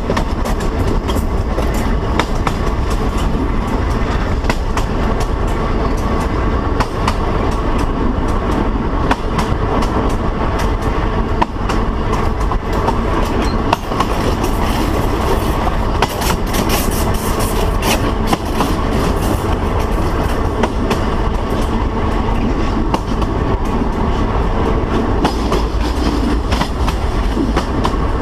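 Train running along the line, heard from inside the driver's cab: a steady rumble with frequent short sharp clicks from wheels on the track.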